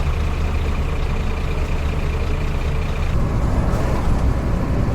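Scania truck's diesel engine running steadily, heard from inside the cab, with the sound changing about three seconds in.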